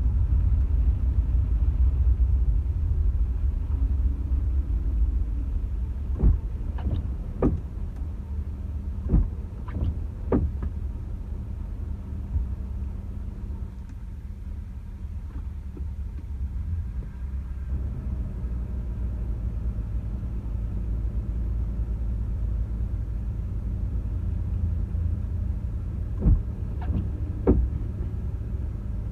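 Car driving, a steady low rumble of engine and road noise heard from inside the vehicle, with a few short sharp knocks in two clusters.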